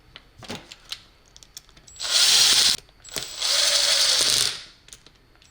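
Power drill with a Phillips bit driving the screws of a plug's cord cap home in two short runs, the second longer at about a second and a half, after a few small handling clicks.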